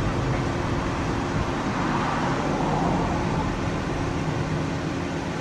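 Steady roadside traffic noise, with a vehicle passing about two seconds in, over a steady low engine hum.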